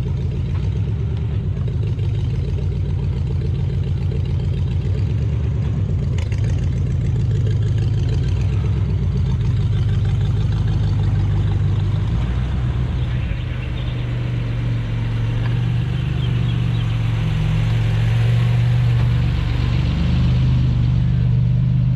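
A car engine running steadily with an even, pulsing low note that shifts in pitch about thirteen seconds in.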